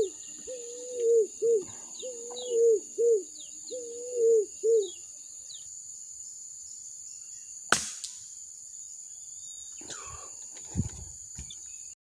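A dove cooing repeatedly, a long wavering coo followed by a short one, four times over, against a steady high-pitched drone. About eight seconds in comes a single sharp crack, the shot of a hunting air rifle, followed by a few faint knocks and rustles.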